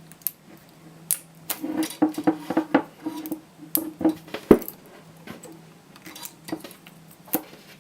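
Hard plastic case of a laptop battery pack being worked apart by hand with a tool: irregular clicks, cracks and scraping, with one sharp knock about four and a half seconds in.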